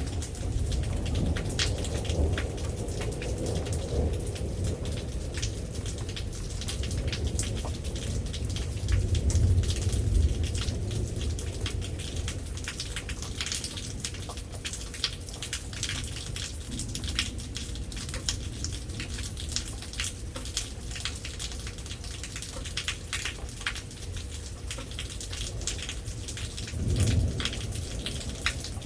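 Heavy rain falling, with many individual drops striking a hard surface close by, over a steady hiss. Thunder rumbles low through roughly the first third and swells again briefly near the end.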